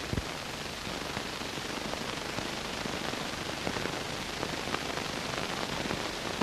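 Steady hiss and faint crackle of an old film soundtrack, with a few scattered clicks and one brief pop near the start.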